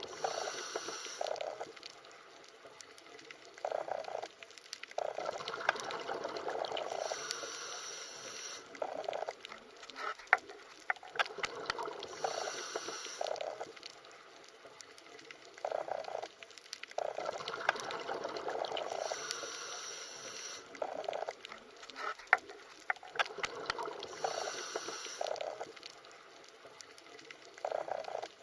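Underwater ambience: rushing, gurgling water and bubbles with scattered sharp clicks, in a pattern that repeats about every six seconds.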